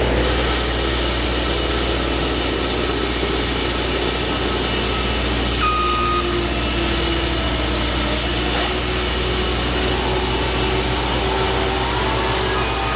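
Heavy construction machinery with its engine running steadily as a low, constant hum, with a few short high tones sounding about six seconds in and again near the end.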